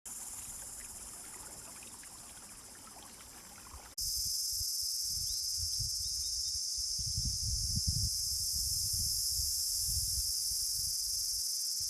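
Insects shrilling steadily in a loud, continuous high-pitched chorus. About four seconds in, the sound jumps abruptly louder and an irregular low rumble joins it.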